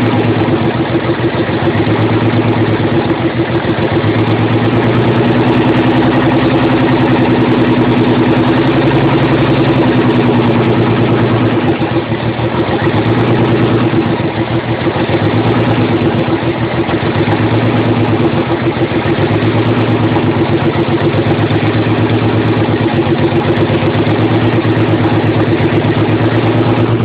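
Nissan 300ZX V6 idling rough and uneven, with a low pulsing that swells and fades about every two seconds: the engine is misfiring, running on only four or five cylinders because of bad fuel injectors and worn injector clips.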